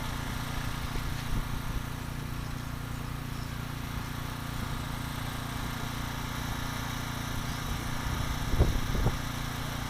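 Radio-controlled electric motorcycles racing, a steady thin whine of small motors over a low hum. Two short knocks about eight and a half and nine seconds in.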